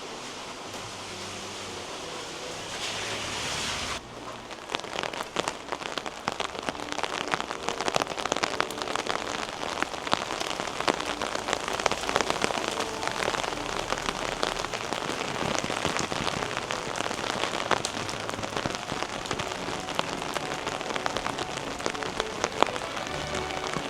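Steady rain, pattering on an umbrella overhead. About four seconds in the sound changes suddenly to a denser, closer patter of many sharp individual drop hits.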